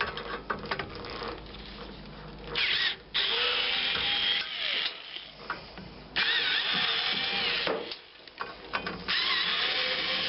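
Power drill driving screws out of a ballast's metal case, running in three bursts of one and a half to two seconds each with a wavering motor whine. Small clicks and rattles of handled metal parts before the first burst.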